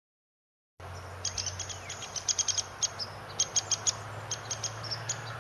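Woodpecker sound: short, sharp high ticks in quick runs of several at a time, over a steady background hiss and a low hum.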